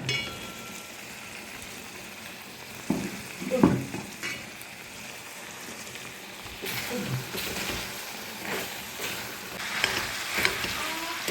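Food sizzling in a hot pan while it is stirred, with a couple of knocks of the utensil against the pan about three seconds in; the sizzle grows brighter and busier in the second half.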